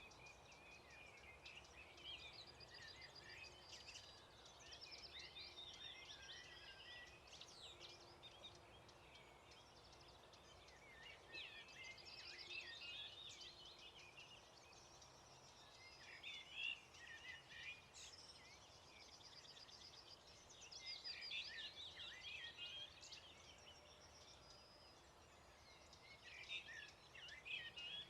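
Faint chorus of songbirds singing, their songs coming in bursts every few seconds over a low steady hiss.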